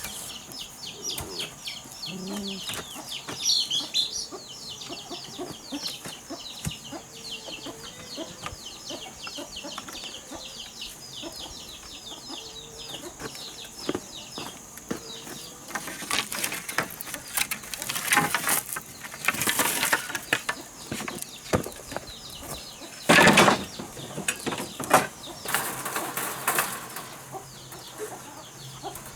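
Insects trilling in rapid pulses through the first half. From about halfway, a run of loud flapping, rustling bursts, typical of chickens beating their wings; the loudest comes about 23 seconds in.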